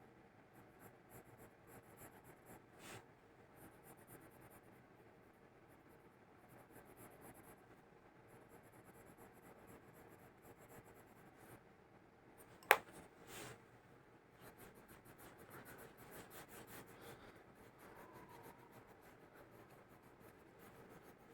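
Quiet room tone with faint rustling and scratching, and one sharp click about halfway through followed by a softer one.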